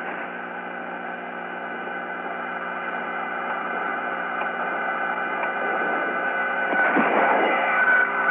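Steady hum and hiss of a narrow-band radio voice link between transmissions, with several fixed hum tones, slowly growing louder toward the end.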